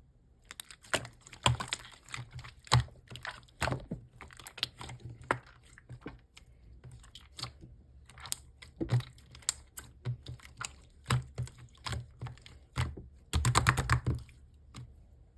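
Slime being squished and pressed by hand, giving irregular sticky clicks and pops, with a quick flurry of pops near the end.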